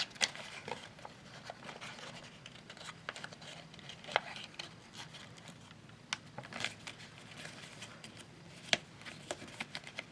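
Sheet of paper being folded and creased by hand: scattered crinkles and sharp little crackles, a louder crack every few seconds.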